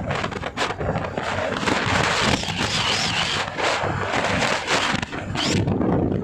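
Wind buffeting the microphone during a bike ride, with irregular crackling gusts over steady riding noise.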